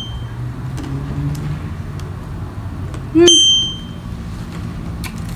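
A single short high electronic ding about three seconds in, ringing briefly and fading, over a steady low background hum.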